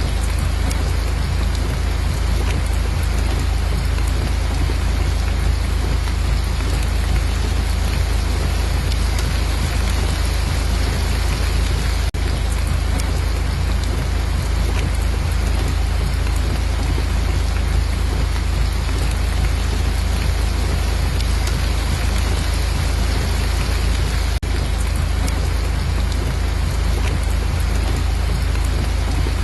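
Steady heavy rain falling, a dense even hiss over a deep rumbling low end, with two very brief dropouts about twelve seconds apart.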